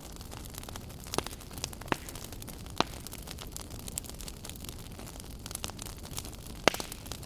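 Wood fire burning in a fireplace: a steady hiss with irregular sharp crackles and pops, a few louder pops along the way and the loudest near the end.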